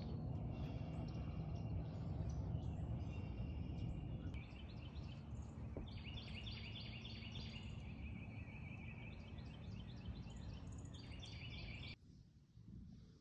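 Many birds chirping and calling over a steady low outdoor rush, the calls coming in repeated rapid series. About twelve seconds in, the sound drops away abruptly to a much quieter indoor background.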